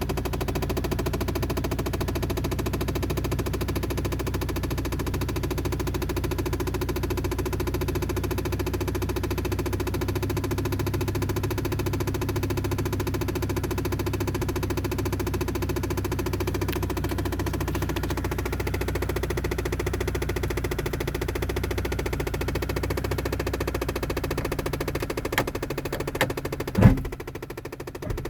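Rapid, steady clicking chatter from a car, with a low hum underneath. This is the unexplained noise the car keeps making. A few sharp knocks come near the end.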